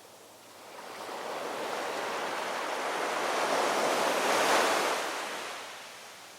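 A single ocean wave breaking and washing in. The rush of surf swells up about half a second in, peaks a little after the middle and dies back to a low hiss near the end.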